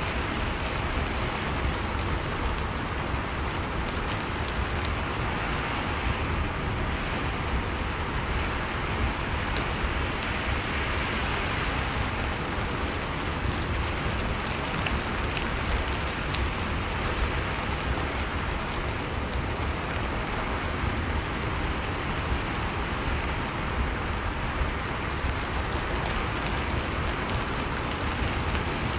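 Steady rain falling on a surface, an even hiss with scattered faint drop ticks and a low rumble underneath.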